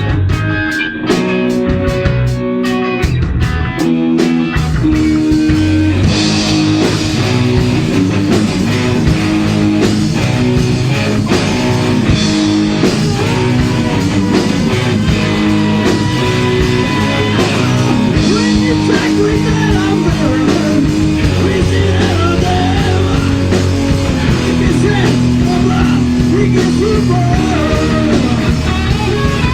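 Heavy metal band playing electric guitars, bass and drums. For the first few seconds the guitars play a stop-start riff of chord stabs, then the full band comes in with drums and cymbals, and a lead line bending in pitch rides over it.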